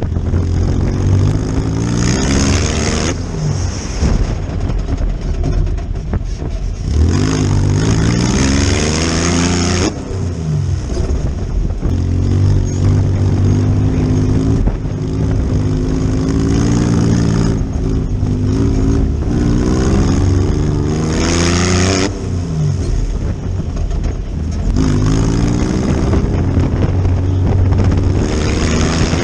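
Air-cooled VW engine of an off-road buggy revving up and falling back again and again, its pitch climbing and dropping several times, with several bursts of rushing noise.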